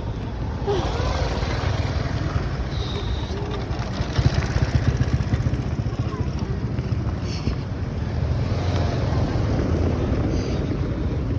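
Road traffic: vehicle engines running, a steady low rumble that swells for a moment about four seconds in as a vehicle passes close.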